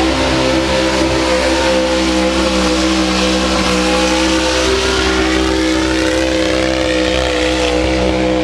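A pulling truck's engine running loud at steady high revs, its pitch holding almost level with a slight waver partway through.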